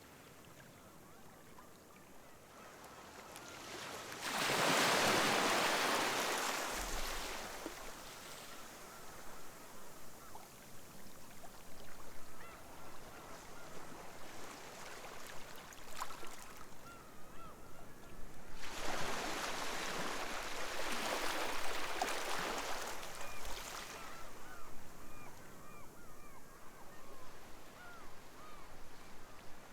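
Sea waves breaking on the shore in two big surges, a few seconds in and again past the middle, with a softer wash between. Many gulls call faintly throughout the second half.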